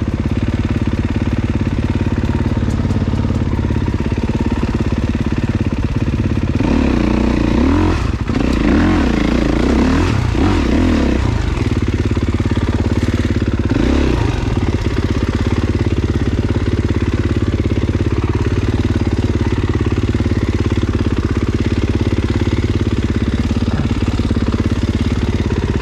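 Dirt bike engine running hard on a trail, revving up and down several times in the middle as the throttle is worked.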